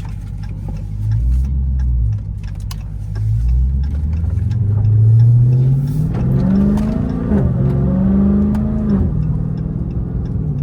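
Dodge Charger Hellcat's supercharged V8 through a mid-muffler-delete exhaust, under hard acceleration. A short blip about a second in, then the pitch climbs for several seconds, dips briefly at a shift and holds high before dropping back near the end.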